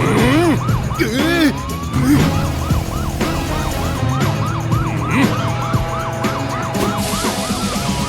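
Police siren sound effect yelping in quick, even up-and-down sweeps, about three a second, over background music.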